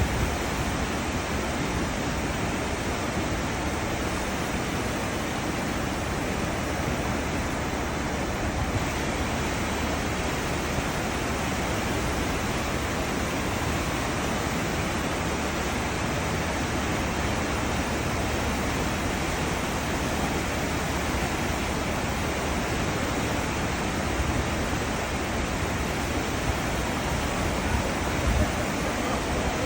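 Cruise ship's wake churning behind the hull: a steady rushing of water with a low rumble underneath.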